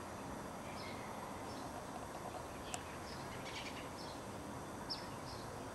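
Faint, short, high bird chirps at irregular intervals over steady outdoor background noise.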